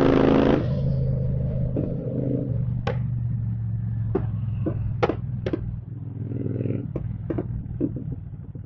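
Royal Enfield Continental GT 650's parallel-twin engine dropping off a high rev about half a second in and settling to a steady idle, with a string of sharp exhaust pops and crackles on the overrun. The pops come from its Code 6 ECU tune.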